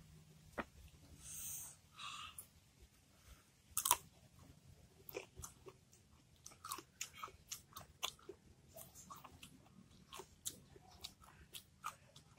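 Crunchy chewing of raw young mango: a run of short, irregular crunches a few times a second, with one louder crack about four seconds in.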